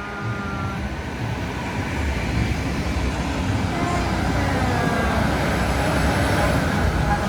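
Heavy truck engine running as the truck approaches, the rumble growing steadily louder.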